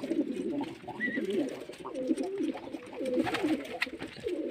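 Several domestic pigeons cooing together in overlapping, wavering calls, with a few light clicks among them.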